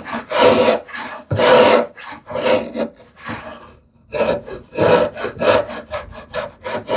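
Repeated rasping strokes of a hand tool scraping wood, thinning a tenon that fits too tightly in its mortise. Longer strokes at first, a short pause a little past halfway, then quicker, shorter strokes.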